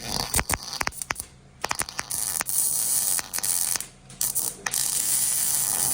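Hand-tool and shop work on a car exhaust pipe: a quick run of irregular metallic clicks, then a steady high hiss.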